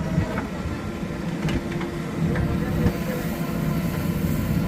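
JCB 3DX backhoe loader's diesel engine running steadily, with a few light knocks from the machine.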